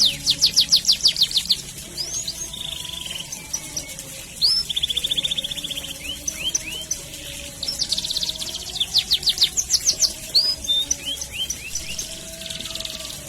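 Domestic canary singing a long continuous song: fast runs of sharp sweeping notes, about ten a second, alternating with tight buzzy rolled trills and short single chirps.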